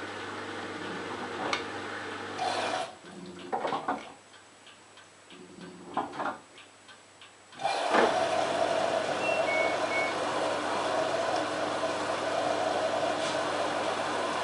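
LG F1443KG front-loading washing machine partway through a wash cycle. Its drum motor hums steadily and stops about three seconds in. A pause follows with a few clicks and knocks from the drum. About halfway through, a louder steady rushing, whirring noise starts and keeps going.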